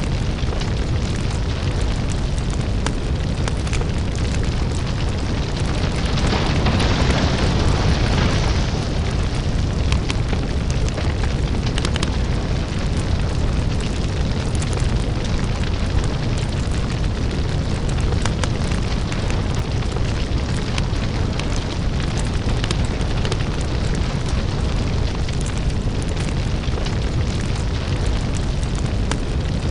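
Crackling lava fire: a deep, steady rumble with dense, irregular crackles and pops. About six seconds in it swells into a louder rush for a couple of seconds, then settles back.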